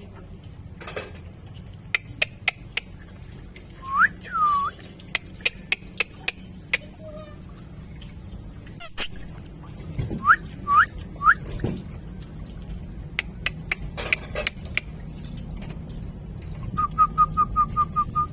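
A parrot whistling in short curved notes: a pair about four seconds in, three quick ones about ten seconds in, and a fast run of about eight near the end, with scattered sharp clicks and taps between them.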